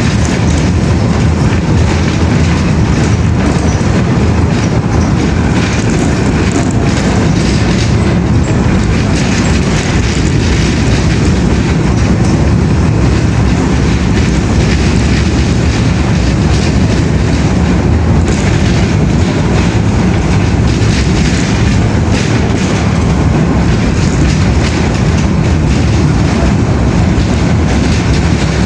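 Loud, steady rumbling noise with a dense fine clatter, unchanging throughout.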